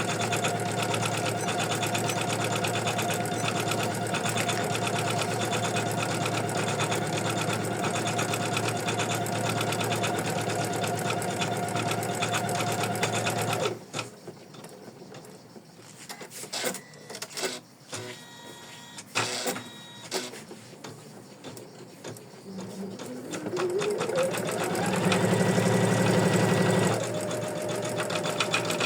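Computerized embroidery machine stitching an in-the-hoop design at a steady pace, then stopping suddenly about halfway through. A few clicks and taps follow, and then the machine starts again with a rising whine and goes back to steady stitching near the end.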